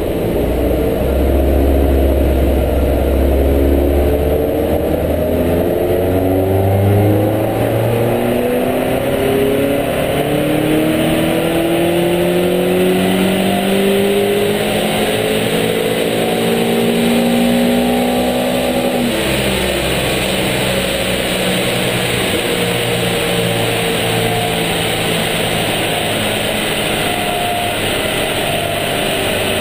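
Peugeot 206 RC's 2.0-litre 16-valve four-cylinder engine running a power pull on a chassis dynamometer. The revs climb steadily under load, then drop suddenly about two-thirds of the way through as the throttle is released, and the engine runs on at lower, falling revs.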